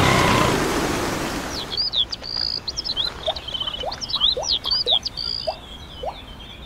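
Small birds chirping and whistling, a busy run of short, high calls and quick rising chirps, starting about two seconds in after a steady hiss cuts off.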